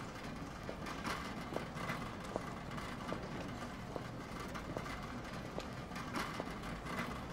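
Steady traffic noise of a street, with a sharp tap about once a second.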